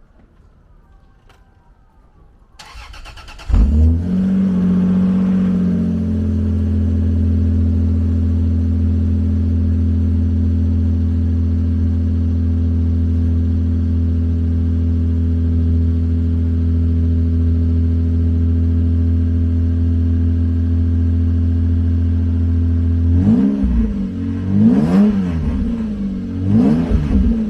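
Lexus SC300's 2JZ-GE inline-six with the mufflers deleted is cold-started: the starter cranks briefly about two and a half seconds in, the engine catches and settles into a steady idle, then is revved in several quick blips near the end. It is still pretty quiet, the resonators still in place.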